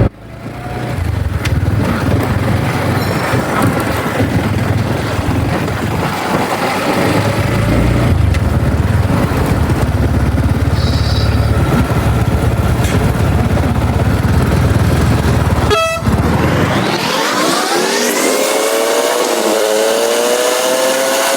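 Motorcycle being ridden, with heavy wind rush over the engine rumble. About sixteen seconds in, the sound breaks off, and an engine note rises in pitch as it revs up, then holds.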